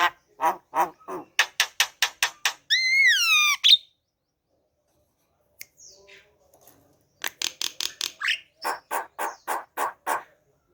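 Javan myna calling: a fast run of harsh repeated notes, about four or five a second, then a long whistle that rises and falls. After a pause of a few seconds comes a second fast run of notes.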